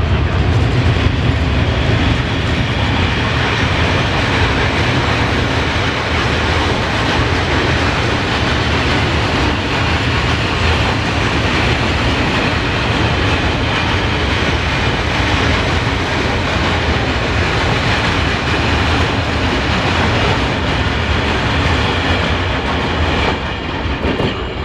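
Freight train passing through the station, a loud, steady rumble and rattle of wagons on the rails that eases a little near the end.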